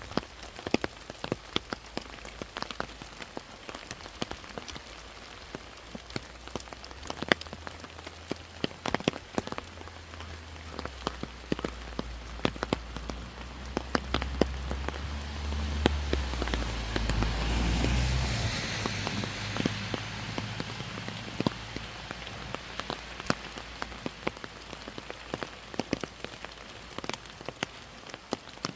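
Steady rain, with many single drops striking close by as sharp ticks. About halfway through, a low rumble swells for several seconds and then fades.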